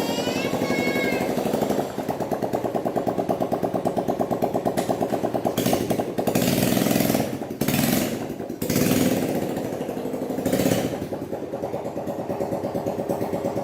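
Small motorcycle engine of a homemade go-kart running with a rapid, even firing pulse, revving up several times near the middle before settling back.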